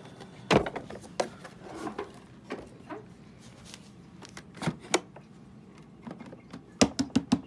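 Scattered plastic clicks and knocks from handling the Bissell CleanView upright vacuum's dirt cup, with the motor off, then near the end a fast run of knocks, about four or five a second.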